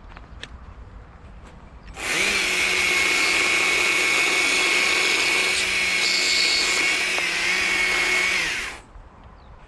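Handheld electric power tool switched on about two seconds in and run steadily at full speed for about seven seconds with a high whine, then switched off and winding down.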